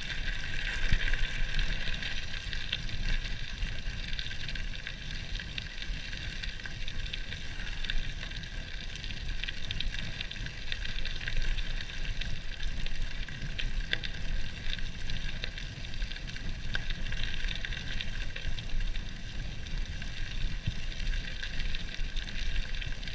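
Gravel bike tyres rolling and crackling over loose gravel, with wind rumbling on the microphone while riding.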